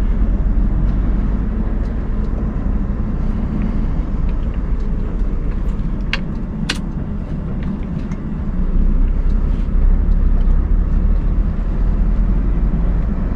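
Scania R580 truck's V8 diesel running steadily while driving, a low rumble heard from inside the cab that swells slightly about two-thirds of the way through. Two sharp clicks or knocks come about half a second apart near the middle.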